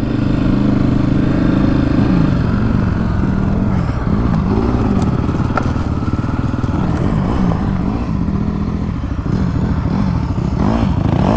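Honda CRF250F dirt bike's single-cylinder four-stroke engine under way, the revs rising and falling over and over as the throttle is worked on a sandy trail.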